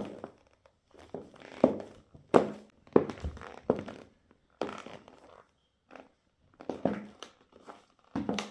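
Footsteps in black stiletto high heels, a sharp knock at each step, about ten steps at an uneven pace.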